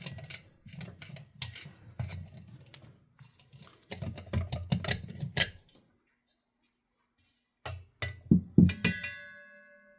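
Metal ceiling-fan parts and hand tools being handled in disassembly: knocks and light clatter, a pause, then a few sharp knocks near the end, one of them leaving a metal part ringing briefly.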